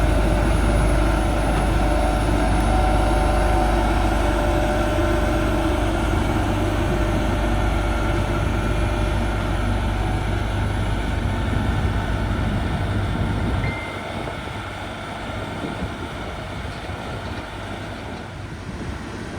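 Heavy diesel earthmoving machine running, a steady low engine rumble with mechanical clatter; after about fourteen seconds the low rumble falls away and the sound gets quieter.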